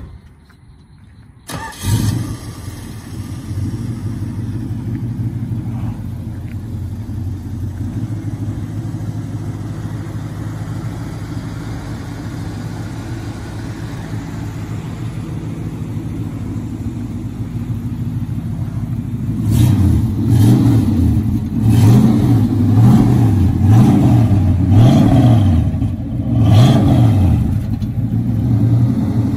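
1970 Dodge Dart Swinger's 318 V8 starting about two seconds in, then idling steadily. In the last ten seconds it is blipped through a series of quick revs that rise and fall. A short sharp thump comes right at the start.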